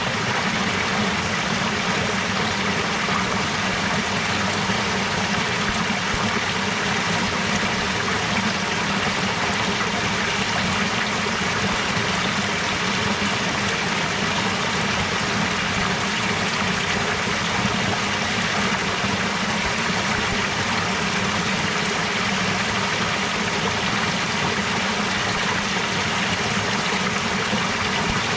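Clear water flowing steadily in a stream, an unbroken even rush.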